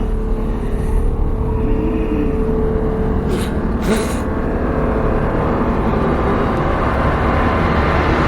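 Film trailer soundtrack: a dense low rumble with a steady hum, and two sharp hits about half a second apart a little before the middle.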